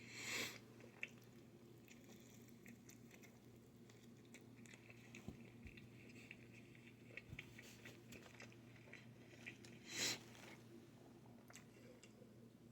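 Faint close-up chewing of pizza, with scattered small wet mouth clicks and two louder noisy bursts, one near the start and one about ten seconds in, over a steady low hum.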